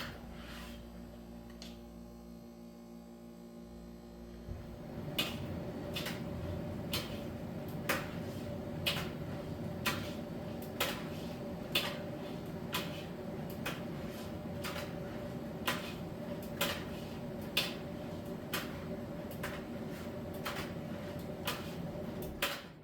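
Miele T1 heat-pump tumble dryer running: a steady hum, then about four seconds in the drum starts turning, with a light knock about once a second as the load tumbles. The drum stops suddenly near the end.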